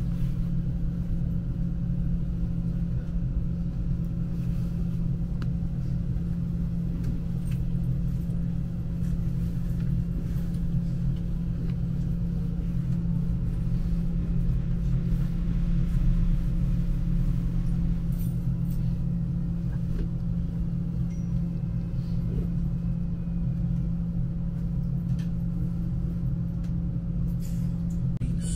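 S-Bahn electric multiple unit running along the line, heard from inside the train: a steady low rumble of wheels on rails with a constant low drone and a faint higher hum, swelling slightly about halfway through.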